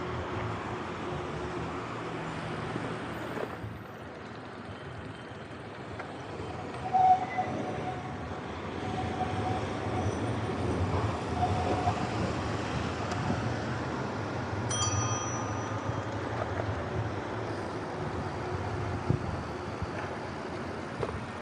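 Street traffic noise with a continuous low rumble. There is a knock about seven seconds in and a single bell-like ding about fifteen seconds in.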